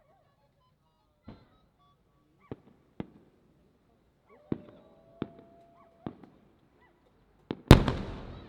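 Aerial firework shells bursting: several sharp separate reports, then a much louder boom near the end that trails off in a long rumbling echo.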